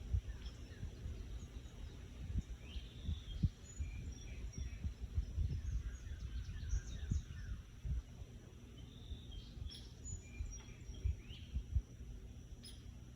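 Small birds chirping and calling in short, scattered notes, over irregular low thumps.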